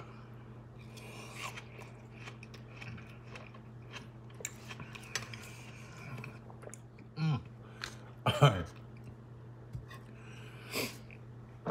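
A person chewing a mouthful of watermelon, with small wet clicks and crunches from the mouth. Two short vocal sounds come through about seven and eight and a half seconds in.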